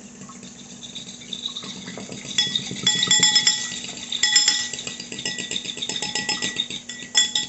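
A utensil beating quickly in a bowl, egg being whisked or filling mixed, with rapid clinks against the bowl's side and the bowl ringing. Faint at first, louder from about two seconds in.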